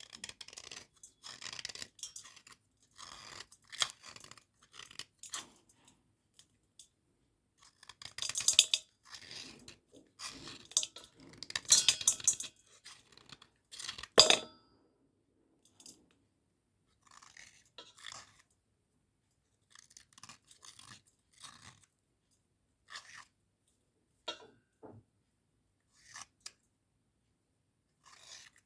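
Dry Cat brand cubical slate pencils crunching and scraping in short, irregular bursts, loudest about eight to fourteen seconds in with a sharp snap near the middle, then sparser and quieter.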